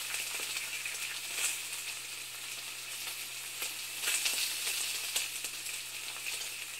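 Food sizzling in a hot pan: a steady hiss with scattered small crackles, over a low steady hum.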